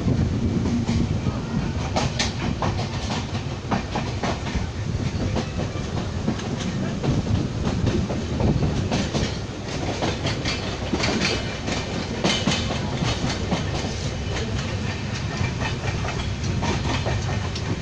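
Passenger train running along the track: a steady low rumble with frequent irregular clacks and rattles of the wheels and carriage.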